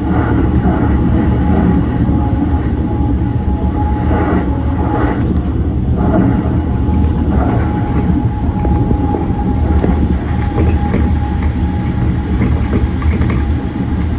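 Yokosuka Line E235-1000 series electric train running along the track: a steady low rumble of wheels on rail, with a thin steady tone and a few brief knocks.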